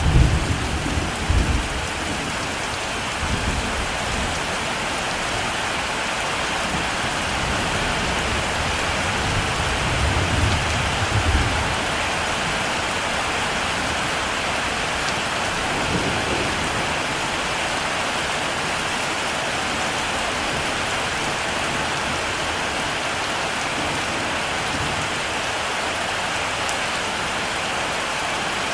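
Heavy rain falling steadily, with low rolls of thunder rumbling near the start and again about ten seconds in.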